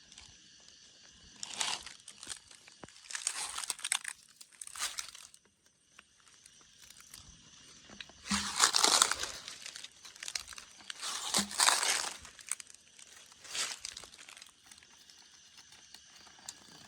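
Repeated bursts of rustling and crinkling, about six in all, the loudest about halfway through and again a few seconds later. A faint steady high insect drone sits underneath.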